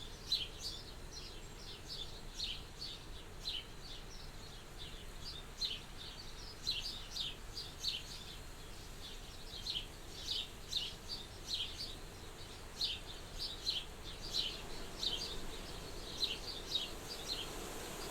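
A small bird chirping over and over in quick clusters of short, high notes, against the steady soft hiss of wind at a window; the chirping stops shortly before the end.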